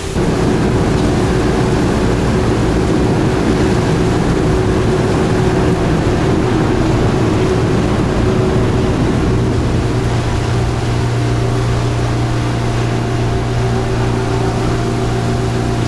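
Ferry's engine running with a steady drone under the hiss of heavy rain. About ten seconds in the engine note changes and grows stronger.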